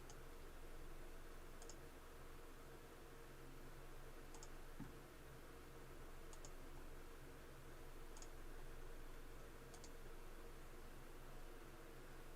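Faint computer mouse clicks, one every couple of seconds, each a quick double tick, over a low steady electrical hum.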